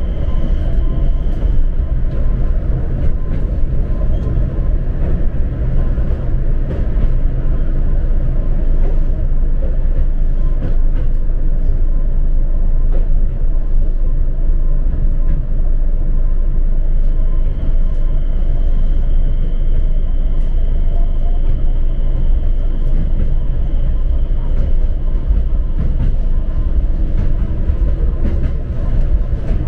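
Steady running rumble of a train heard from inside the carriage, with scattered light clicks and rattles. A faint high whine sounds briefly at the start and again through the second half.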